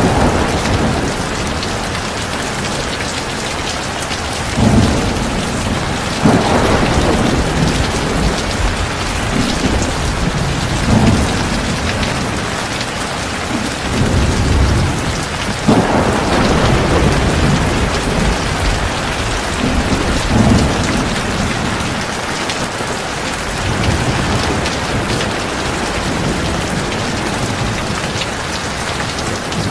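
Heavy rain falling steadily, with low rumbles of thunder that swell and fade several times.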